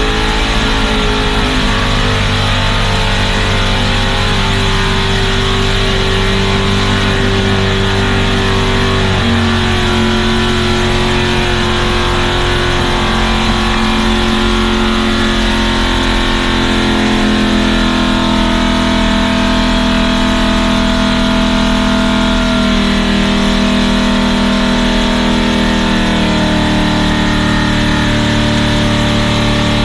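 Truck engine running under way, steady and loud, its pitch holding then stepping to a new level about a third of the way in and twice more near the end as engine speed changes.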